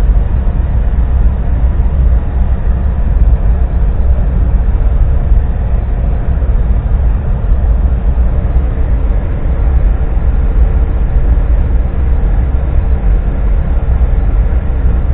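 Steady low engine rumble, heard from inside a truck's cab, with a faint constant hum above it and no change in pitch or level.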